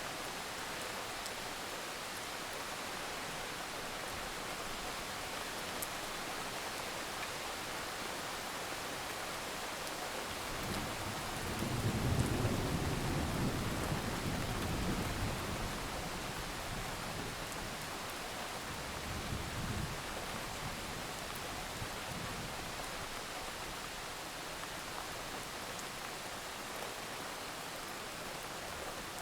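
Thunderstorm: steady heavy rain hiss, with a low roll of thunder building about ten seconds in and fading out, and a smaller rumble a few seconds later.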